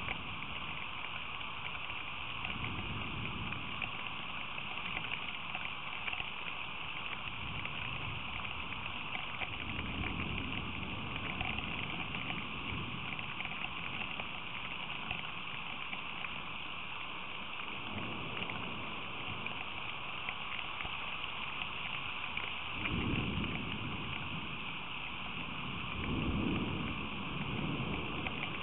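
Rain storm: steady rain making a constant hiss, with several low rumbling swells coming and going, the loudest two near the end.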